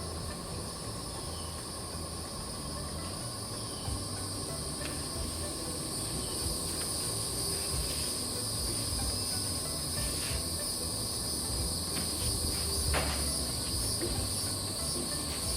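Steady high-pitched chorus of insects, with a few faint knocks now and then.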